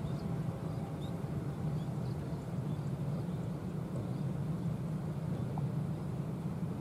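Distant passenger trains rolling along the track: a steady low rumble with no let-up, and a few faint high chirps above it.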